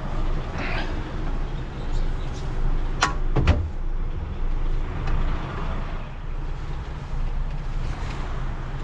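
Heavy recovery truck's diesel engine running steadily as the truck creeps forward. Two sharp knocks come close together about three seconds in.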